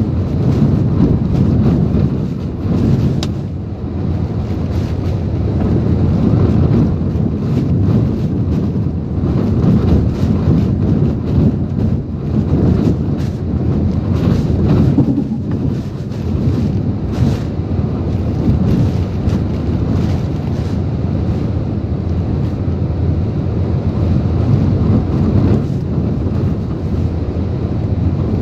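Typhoon wind and rain blowing hard in gusts that rise and fall, with heavy wind rumble on the microphone.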